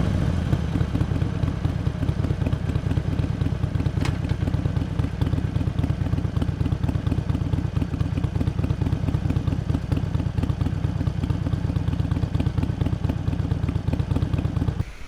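Harley-Davidson Iron 883's air-cooled V-twin engine running steadily with a dense low exhaust pulse, then dropping away sharply just before the end. A single sharp click comes about four seconds in.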